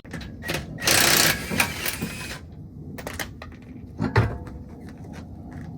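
Impact wrench running in one burst of about a second and a half, loosening a wheel's lug nuts, followed by a few sharp metallic knocks, the loudest about four seconds in.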